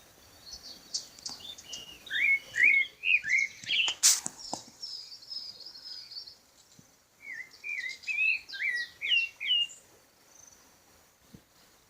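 Birds singing: two runs of quick, repeated whistled chirps, with thin high notes above them. A single sharp click about four seconds in.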